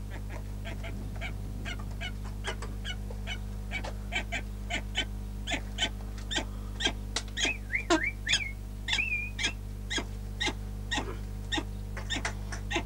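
A bird calling repeatedly in short, sharp, high chips, coming faster and louder as it goes, with a few longer bending notes about eight seconds in, over a steady electrical hum.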